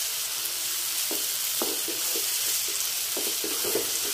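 Chopped tomatoes, green chillies and onions sizzling in oil in a nonstick kadai, with a spatula stirring them and scraping the pan in repeated, irregular strokes over a steady frying hiss.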